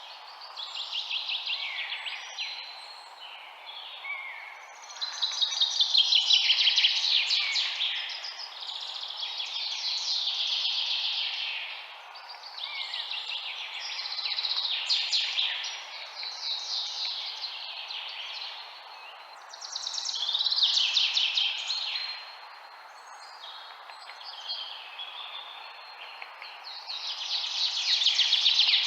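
Songbirds chirping and singing in rapid trilled phrases, each lasting a second or two, one after another with short gaps, over a steady background hiss.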